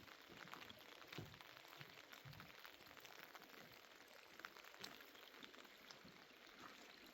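Faint rain pattering on a surface, with scattered drops ticking.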